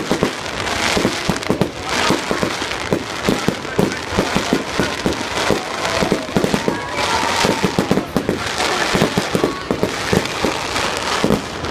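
A continuous barrage of fireworks: rapid bangs and crackles overlapping with no pause, with a brief whistle about seven seconds in.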